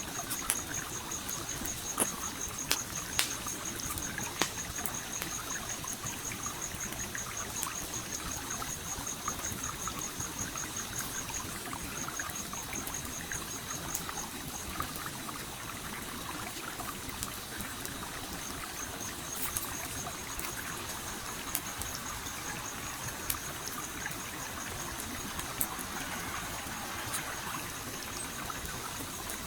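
A stream flowing steadily, with scattered sharp crackles and pops from a campfire. A high, rapid trill runs through most of it and breaks off for a few seconds just past the middle.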